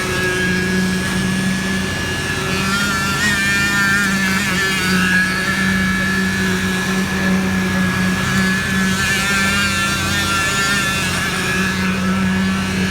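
An engine running steadily at constant speed, with a steady high whine over its hum.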